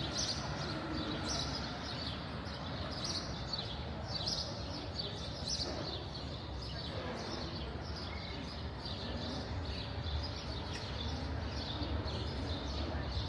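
Birds chirping, short high calls repeating every second or so, over a steady low rumble of outdoor background noise.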